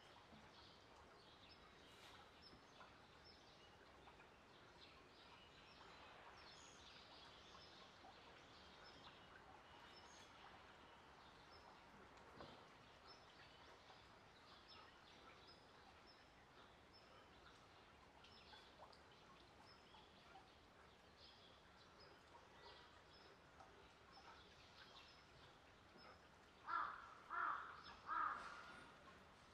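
Faint outdoor ambience with small birds chirping softly throughout. Near the end a bird gives three loud calls in quick succession, about half a second apart.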